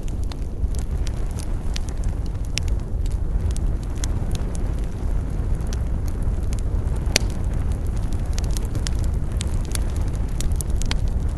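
Wood bonfire crackling, with irregular sharp pops over a steady low rumble. A louder pop comes about seven seconds in.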